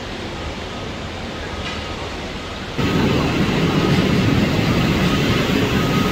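Railway noise of a train running on the tracks, a steady rumble that jumps abruptly louder about three seconds in.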